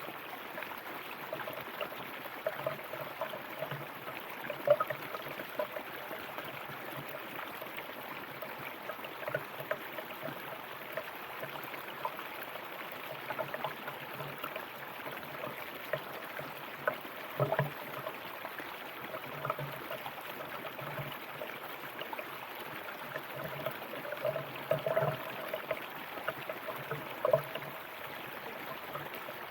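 River water flowing steadily, with frequent small gurgles and splashes over the continuous rush.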